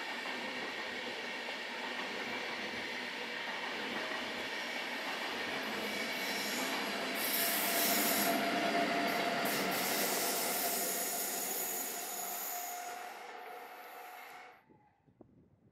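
SBB standard-gauge passenger train running past on the mainline: a steady rush of wheels on rail, louder in the middle with bouts of high-pitched hissing and squealing. The sound cuts off suddenly near the end.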